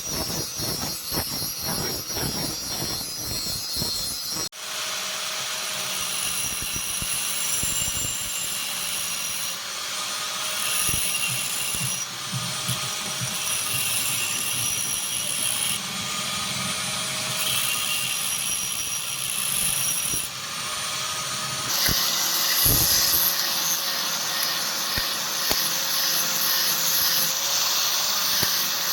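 A power tool, most likely a grinder, running steadily against the spring-steel spear blade, in several short stretches with abrupt changes between them.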